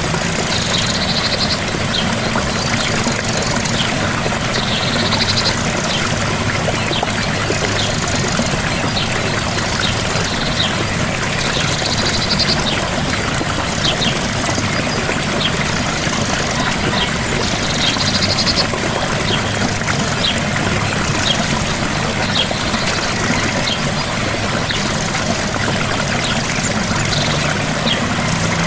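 Gentle waterfall, a steady rush of falling water. A short, high, patterned chirp repeats every few seconds over it, with scattered small ticks.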